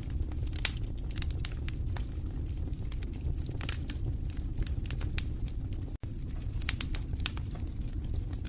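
Wood fire in a fireplace crackling: irregular sharp pops and snaps over a steady low rumble of the flames. The sound cuts out for a split second about six seconds in.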